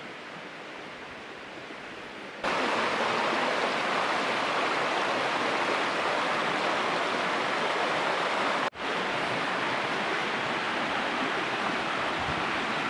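Waterfall: a steady rush of falling water that suddenly becomes louder about two and a half seconds in and cuts out for an instant a little past the middle.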